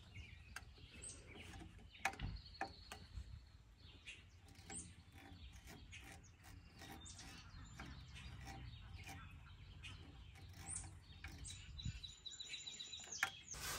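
Faint birdsong, quick chirps with a high buzzy trill near the end, over scattered small clicks and rustles from hands working a battery LED camp lantern's switch and knob.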